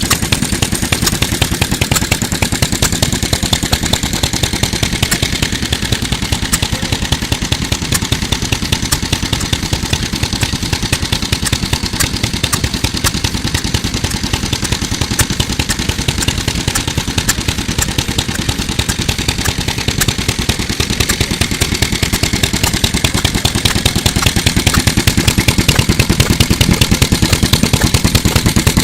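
Mitsubishi Katsura Type J1 single-cylinder stationary engine of about 1955 running steadily, with rapid, even exhaust beats. It gets a little louder near the end.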